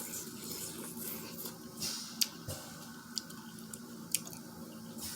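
Close-up eating sounds: wet squishing and chewing of sauce-coated seafood, with a few sharp clicks scattered through.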